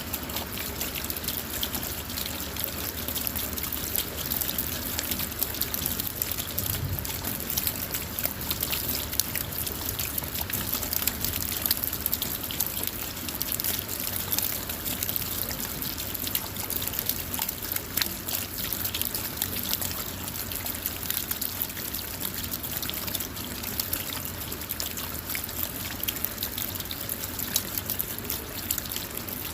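Steady rain falling on a car: an even hiss with many small, sharp drop ticks.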